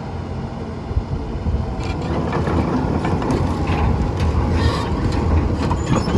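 Komatsu PC210LC-10 excavator's diesel engine running with a steady low drone, with irregular metallic clanking and scraping of the machine at work that grows busier from about two seconds in.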